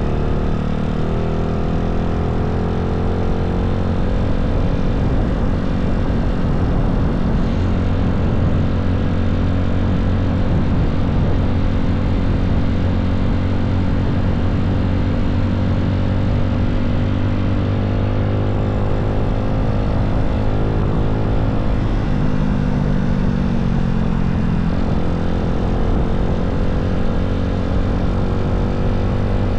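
1985 Honda Z50's 108cc stroker four-stroke single-cylinder engine running steadily, warming up after a cold start; its speed sags briefly and picks back up about two-thirds of the way through.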